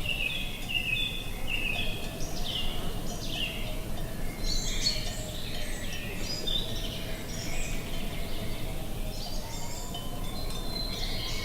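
Songbirds chirping and singing in quick, short calls, many overlapping, over a steady low rush of wind.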